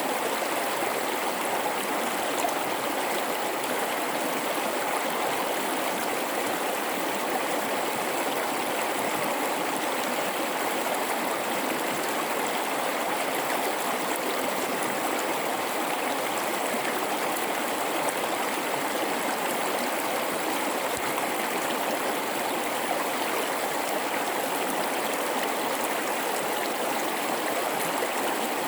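Mountain river flowing over rocks in a gorge: a steady rushing and babbling of water with no breaks.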